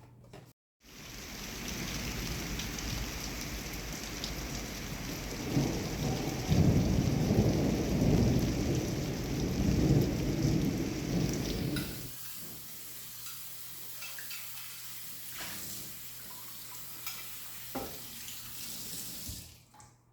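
Steady rain falling, with a long deep rumble of thunder from about 5 to 12 seconds in; afterwards lighter rain with scattered drips. It starts abruptly about a second in and cuts off suddenly near the end.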